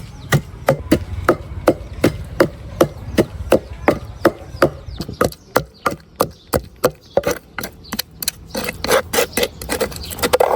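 Knife chopping on a wooden cutting board in a steady rhythm of about three strokes a second, the strokes coming quicker and less evenly near the end.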